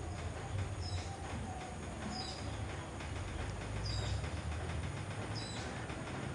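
Four short high bird chirps, about a second and a half apart, over a steady low rumble.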